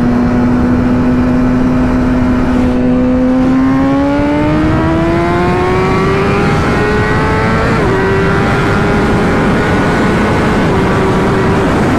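Motorcycle engine running at a steady pitch, then rising smoothly for several seconds as the bike accelerates, with a brief wobble in pitch about eight seconds in before it holds at the higher note. A steady rush of noise runs underneath.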